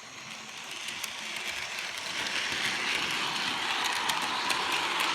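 Bachmann model steam locomotive running along the track pulling coaches, a steady motor-and-wheel whir with light clicking that grows louder as it approaches.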